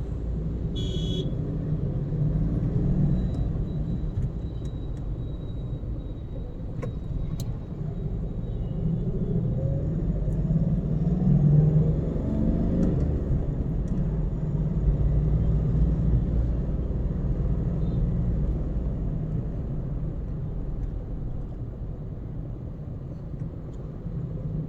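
Car on the move, with a steady low rumble of engine and tyres on the road. A pitched engine note swells and shifts in pitch around the middle, then settles back.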